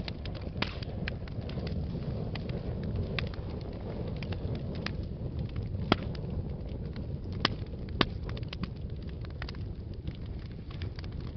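Fire burning in a fireplace: a steady low rumble with frequent sharp crackles and pops, a few louder pops near the middle.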